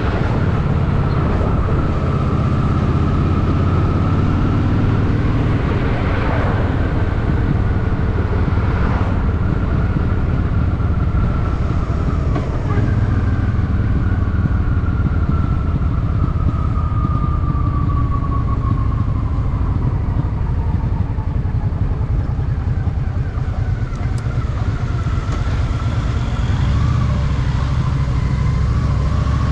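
Honda Shadow VT750's V-twin engine running steadily on the move, a constant deep rumble with a higher tone that slowly falls in pitch through the middle as the bike eases off.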